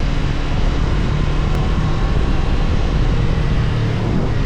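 Motorcycle riding at speed: wind rushing over the microphone on top of a steady, low engine drone.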